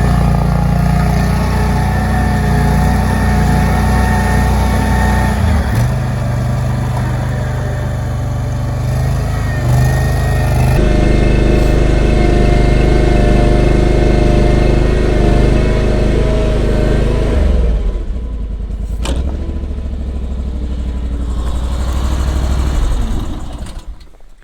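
Baumalight WRL58G stand-on mini skid steer's engine running at high speed while it drives the hydraulic 46-inch WIFO snowblower, its pitch shifting a couple of times. About two-thirds of the way through it drops to a lower, quieter speed, with one sharp click shortly after, and it fades out near the end.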